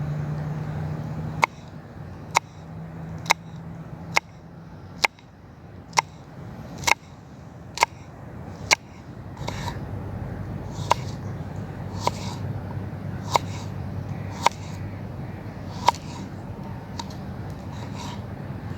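A run of sharp, evenly spaced knocks, about one a second, that turn softer and duller about halfway through as a low steady rumble comes in.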